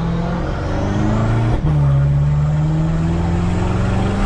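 BMW F10 M5's twin-turbo V8 with an X-pipe exhaust, valves open, accelerating with the revs climbing. It shifts up with a brief dip about a second and a half in, then climbs again, echoing off nearby walls.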